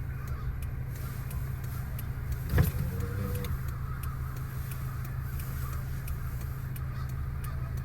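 A steady low rumble like a running vehicle engine, with one sharp knock about two and a half seconds in followed by a brief call. Faint crow calls sit in the background.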